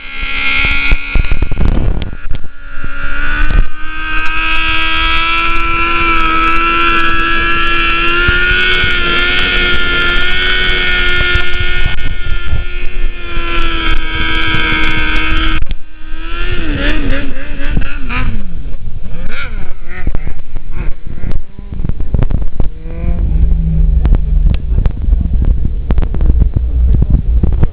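Car engine held at high revs during a burnout, its note steady for a long stretch, then the revs falling away a little past halfway and settling into a lower rumble near the end.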